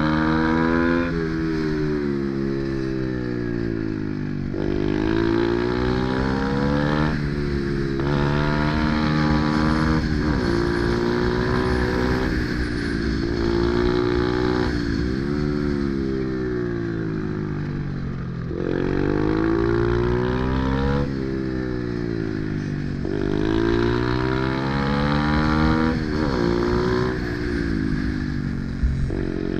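Pit bike engine at full throttle through a run, its pitch climbing over a second or two and then falling back, again and again, as the rider accelerates, shifts and rolls off for corners.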